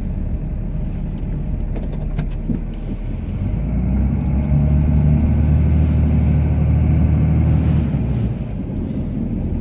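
Cummins straight-six turbo diesel of a Ram pickup, heard from inside the cab while plowing snow. The engine note strengthens about four seconds in as the truck pushes into the drifts, then eases off near the end.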